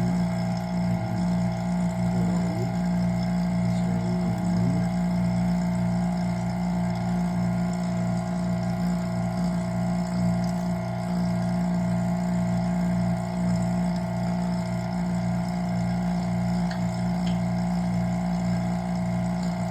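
Vacuum pump running steadily with a low hum and a regular throb about twice a second.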